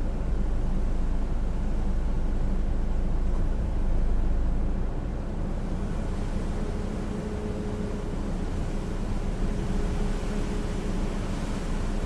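Hurricane wind blowing steadily, heard as a low rumbling noise, with a faint steady hum joining about halfway through.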